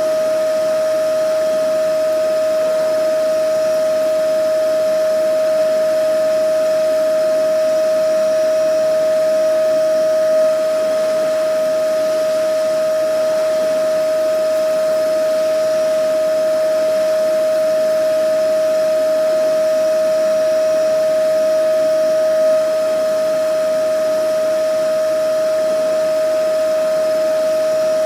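Vacuum cleaner running steadily: a constant high motor whine over an even rushing hiss, with small swells in level about every twelve seconds.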